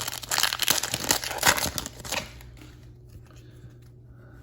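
Trading card pack wrapper being torn open and crinkled, a dense crackling rustle for about two seconds that then fades to faint handling rustles.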